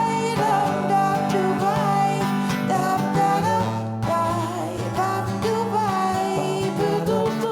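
Live acoustic guitar with a wordless, bending vocal line over it: a musical passage between sung verses of a folk-pop song.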